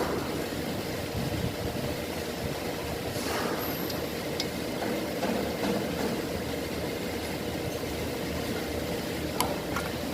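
Steady mechanical running noise, like an engine idling, with a few light clicks near the end.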